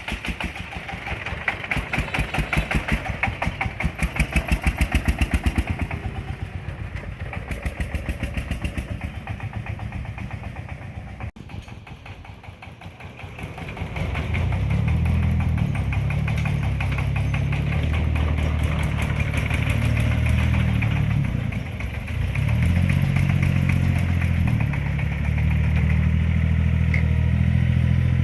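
Engines of an excavator and a three-wheeled tractor running during sand loading. First comes a fast, even engine beat; then, after an abrupt break, a deeper steady engine drone that drops briefly and picks up again about two-thirds of the way in.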